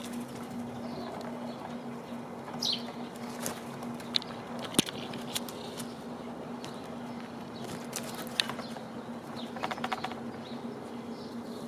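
Birds at a backyard feeder: a few short high chirps, several sharp taps, and a quick rattle of clicks a little before the end, over a steady low hum.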